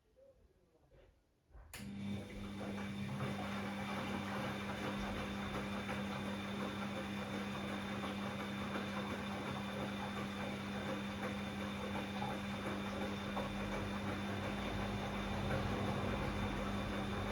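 Bosch Classixx 6 washing machine's drain pump switching on with a click and running with a steady hum over rushing water, emptying the rinse water before the spin.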